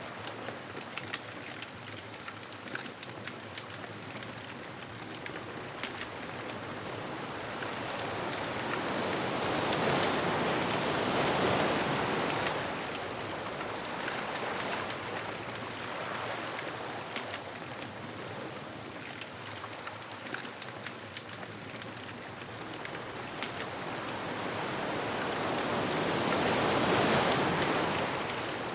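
Ocean waves breaking on a beach, swelling up and washing out twice, about sixteen seconds apart, over a constant fine crackle of a wood bonfire.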